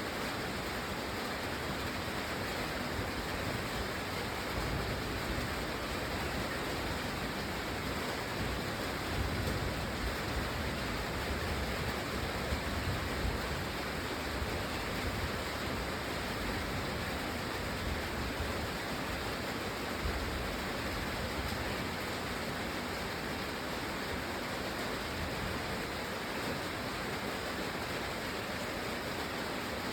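Steady rain: an even, unbroken hiss of falling water, with a low rumble that swells a little in the middle.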